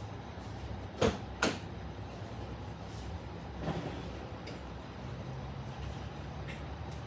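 Two sharp knocks about half a second apart, then a softer one, over a faint steady low hum; the engine is not yet running.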